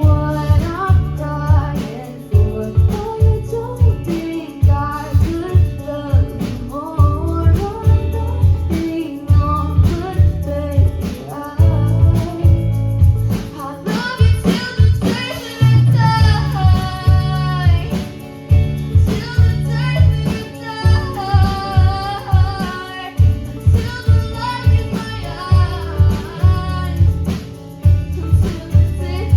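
An unplugged song: a female voice singing over guitar with a steady beat.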